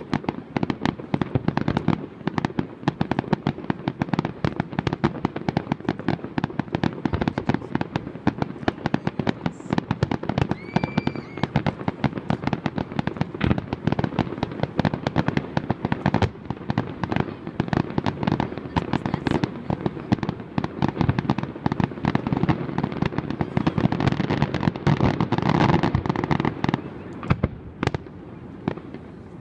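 Fireworks display: a rapid, continuous barrage of shell bursts and crackles, many every second, with a short whistling tone about eleven seconds in. The barrage thins out near the end.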